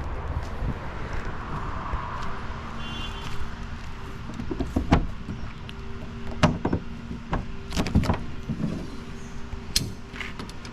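AC Cobra's engine idling steadily, with several sharp knocks and clicks close to the microphone over it.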